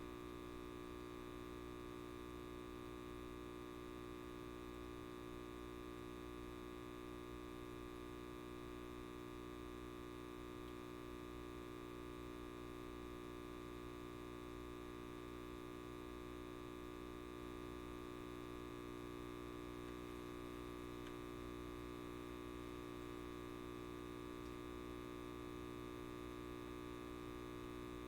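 Electric light bulb buzzing: a steady mains hum with many evenly spaced overtones up to a high buzz, unchanging throughout.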